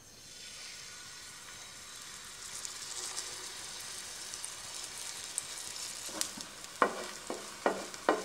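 Chicken cutlet mixture sizzling as it is spooned into shallow hot oil in a flat nonstick pan. The hiss builds from the start, and from about six seconds in the spoon and spatula give a few short knocks and scrapes against the pan as the cutlet is shaped.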